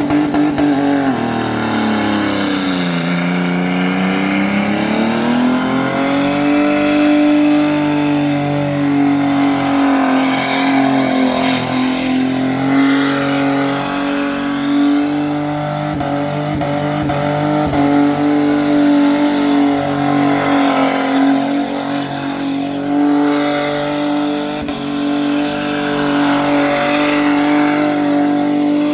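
Muscle car V8 engine held at high revs during a burnout, dipping briefly about three seconds in, then held steady at a high pitch.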